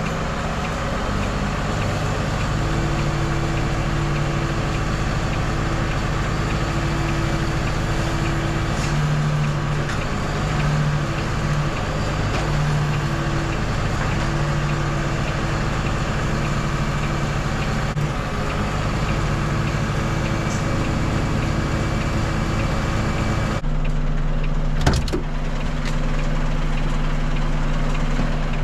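Volvo FE 320 lorry's six-cylinder diesel engine running steadily, with a wash of mechanical noise over it that drops away about 24 seconds in, leaving the engine ticking over; a single click follows about a second later.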